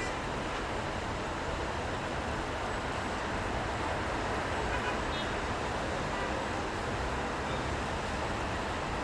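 Steady city street traffic noise: a continuous wash of road sound with a low rumble underneath and no single standout event.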